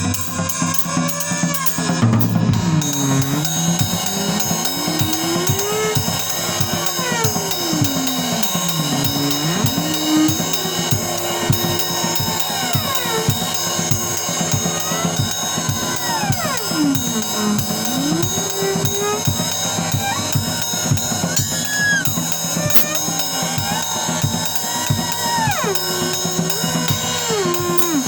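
Bass and drum kit playing together: busy, continuous drumming with ringing cymbals under a bass whose notes slide up and down in pitch.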